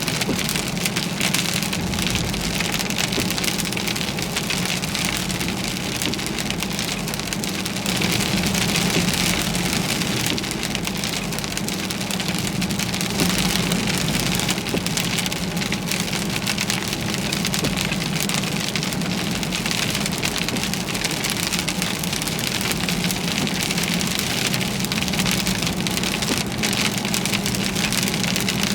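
Heavy rain pelting a moving car steadily, with a constant low hum of the engine and road underneath.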